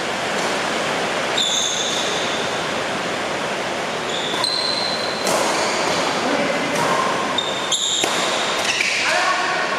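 Heavy rain making a steady loud hiss, with the sharp knocks of badminton rackets hitting the shuttlecock several times and short high squeaks of shoes on the court.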